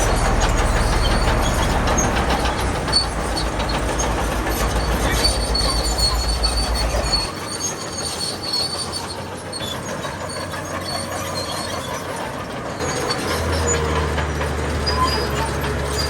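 Crawler bulldozer working: its diesel engine runs under a steel track squeal and clatter. The low engine note drops away about seven seconds in and comes back strongly near the end.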